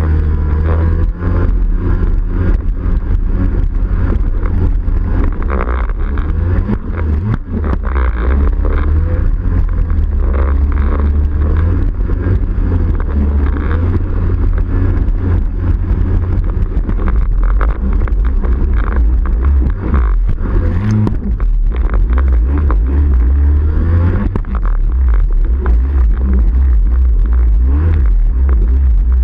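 Yamaha 701 two-stroke twin engine of a Waveblaster personal watercraft, fitted with a Riva expansion pipe, running steadily.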